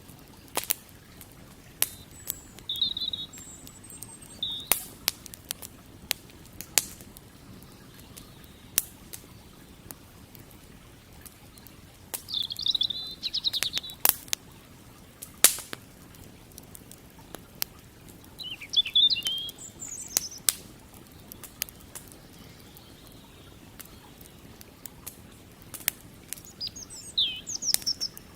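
Wood campfire crackling, with many sharp, irregular pops. Small birds chirp in short bursts several times.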